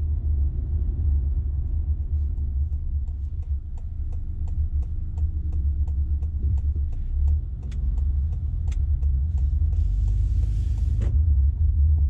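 Car running on the road, heard as a steady low rumble. A run of even ticks, about three a second, goes on through the middle, and a short hiss comes near the end.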